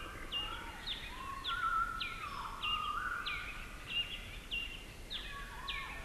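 Songbirds calling over a steady background hiss. One bird repeats a short call that drops sharply in pitch and then holds a note, about three times every two seconds, with lower whistled notes sliding up and down beneath it.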